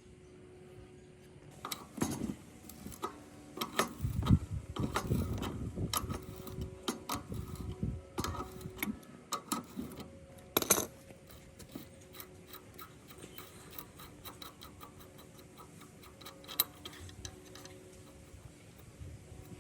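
Hand work on metal parts: irregular clicks and knocks for several seconds, then a fast, even ticking of several small clicks a second.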